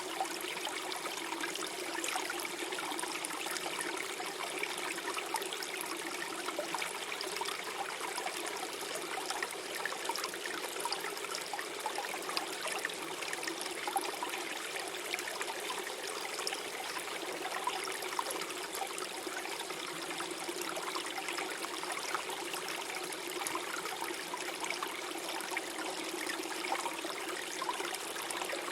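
Gentle stream flowing and gurgling: a steady rush of water with many small splashes.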